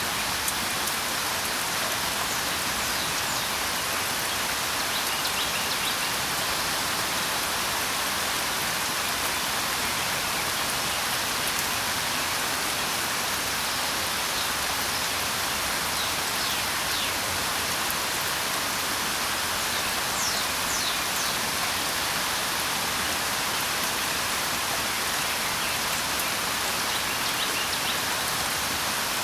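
Steady rain falling, a dense even hiss, with faint high bird chirps now and then.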